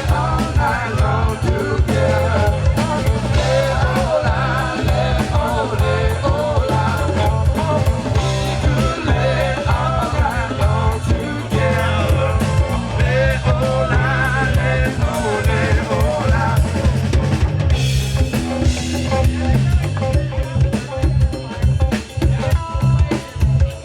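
Live rock band playing: drum kit with snare and bass drum, a bass guitar line and electric guitar, with no speech.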